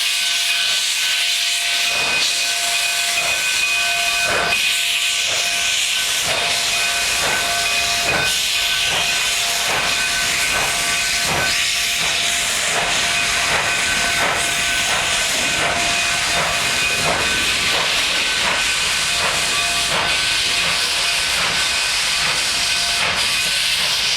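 Steam locomotive venting steam: a loud, steady hiss with faint steady whistle-like tones running through it, and irregular knocks.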